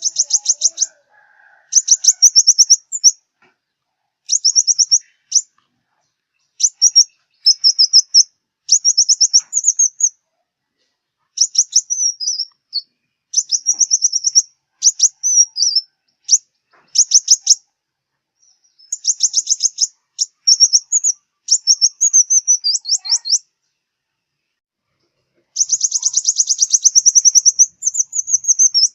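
Sunbird song: high, rapid trilled phrases, each about a second long, repeated again and again with short pauses between them.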